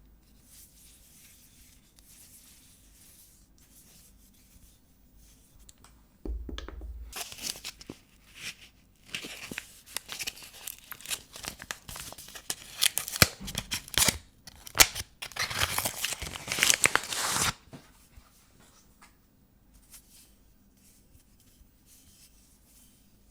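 Paper wrapping being torn and peeled off a bar of soap, a run of ripping and crinkling that starts about six seconds in and stops abruptly after about eleven seconds, with only faint handling before and after.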